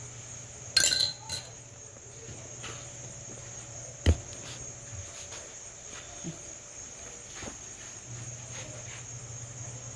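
Crickets chirping steadily in the background over a low hum. A clatter comes about a second in and a single sharp knock, the loudest sound, about four seconds in, as items are moved about on a tabletop.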